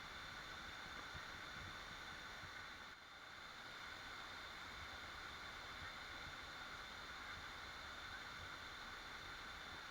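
Waterfall: water falling and rushing as a steady, even noise, dipping briefly about three seconds in.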